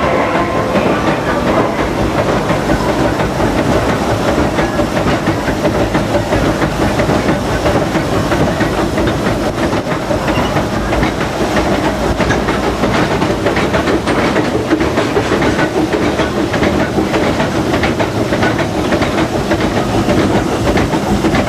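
1925 Baldwin steam locomotive running, heard from its cab: a steady hiss of steam over the running noise, with the wheels clicking over the rails.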